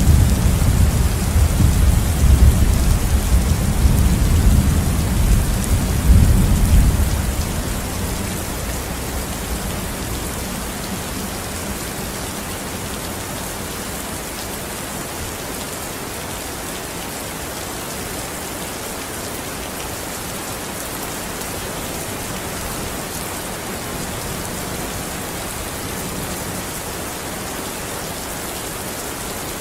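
Steady heavy rain, with a long low thunder rumble over the first several seconds that dies away, leaving the even hiss of the rain.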